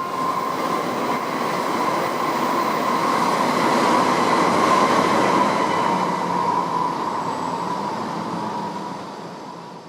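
Shinkansen bullet train passing at speed: a steady rushing noise with a whine held on one pitch, growing to its loudest about halfway and fading away near the end.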